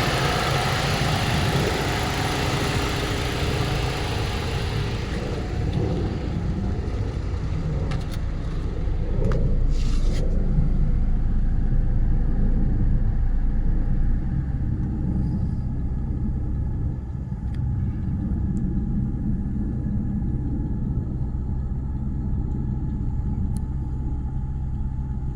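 1997 Mitsubishi Legnum VR-4's 2.5-litre twin-turbo V6 idling steadily after a cold start. A broad hiss over the engine note fades out in the first few seconds.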